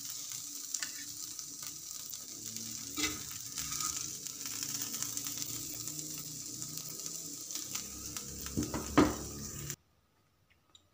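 Diced chicken sizzling in a flat iron pan while a metal spatula stirs and scrapes it, with scattered clicks of the spatula on the pan. A louder scrape comes about nine seconds in, then the sound cuts off suddenly.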